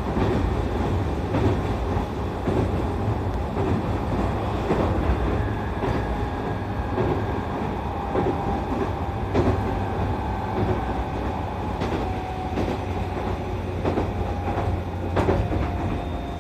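Interior of an E531 series electric multiple unit running at speed: steady rumble of the train on the track, with scattered clicks and knocks from rail joints and a faint steady motor whine through the middle.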